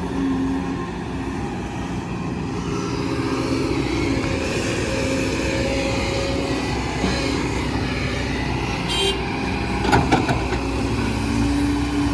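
Heavy diesel truck engine running under load, its pitch shifting as it works, which the driver says it handles easily. A brief clatter of knocks comes about ten seconds in.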